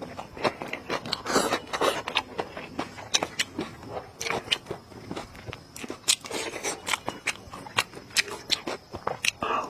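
Close-up eating sounds of someone chewing pork trotters, with irregular wet smacks, sharp clicks and small crunches.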